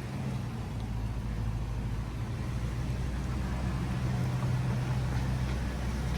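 Car engine running steadily, a low even hum.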